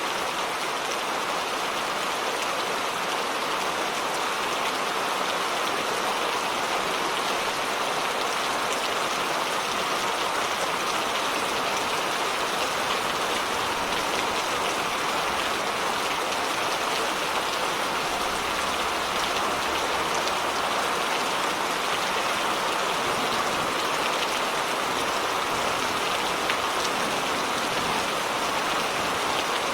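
Steady heavy rain falling, an even, unbroken patter of drops.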